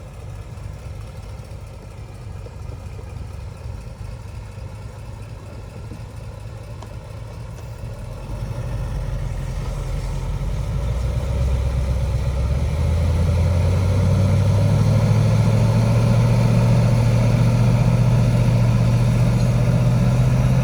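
Heavy diesel engine of earthmoving machinery running low and steady, then revving up from about eight seconds in. It rises in pitch and grows louder, then holds a higher steady note.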